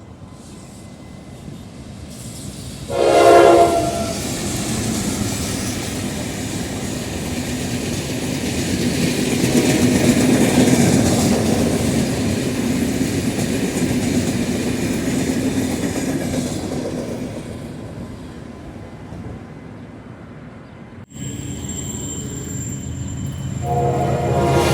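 General Electric diesel locomotive sounding a short horn blast about three seconds in, then passing with its train of coaches, the rumble and rail noise swelling and fading over about fifteen seconds. After a sudden cut, another horn blast begins near the end.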